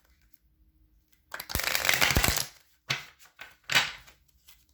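A deck of tarot cards being shuffled: a dense riffling burst lasting just over a second, followed by several short, sharp card snaps and taps.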